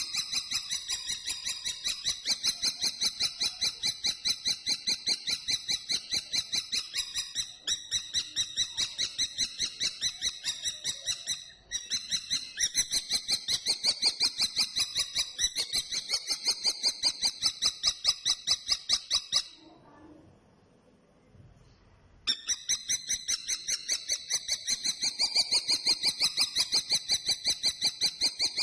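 Common kestrel calling: a fast, even run of high notes, about five a second, that breaks off for about three seconds near the end and then starts again.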